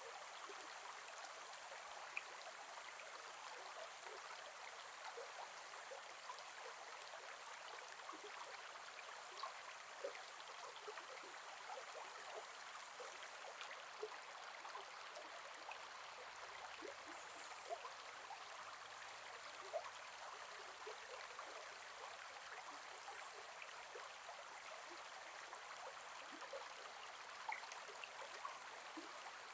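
Gentle forest river flowing: a steady rush of water with small splashes and drips scattered through it.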